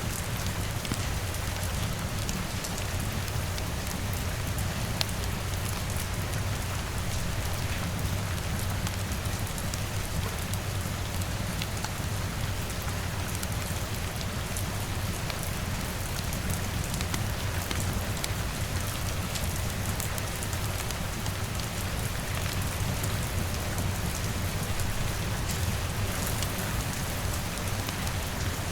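Steady rain falling, an even hiss with a low rumble beneath it and scattered faint crackles, in a layered rain-and-fireplace ambience mix.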